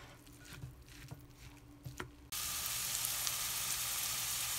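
A wooden spoon stirring shredded zucchini and carrot batter in a bowl, with a few soft clicks and scrapes. About halfway through it switches abruptly to a steady, loud sizzle of the zucchini pancake batter frying in a pan.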